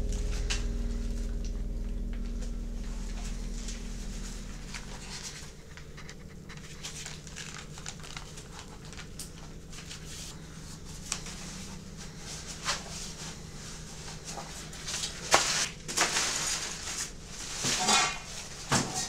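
A low droning hum fades away over the first few seconds, leaving faint scattered clicks and rustles of handling; near the end come several sharper knocks and rustles.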